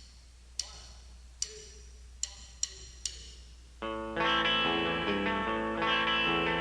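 Guitar music: a few sharp, short high notes spaced irregularly, then about four seconds in a sustained electric guitar chord rings out with effects and holds.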